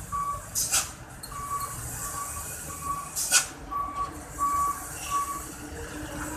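Loaded Mitsubishi Fuso truck running downhill, its engine rumbling under a high electronic warning beep that repeats roughly once a second. Two short, sharp air hisses break in, the first about a second in and the second near the middle, typical of a truck's air brakes.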